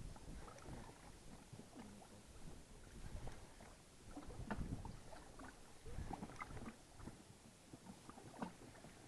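Faint, scattered knocks, rubs and creaks of people shifting about and handling gear in a small fishing boat, with a few soft low thumps.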